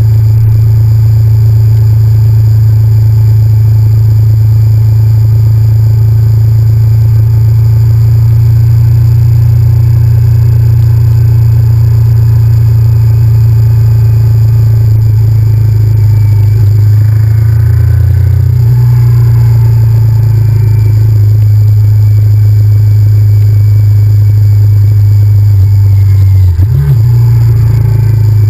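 Honda VTR1000F's 90-degree V-twin engine running steadily at cruising speed, a loud, even drone. Its pitch drops briefly about two-thirds of the way in and shifts again near the end.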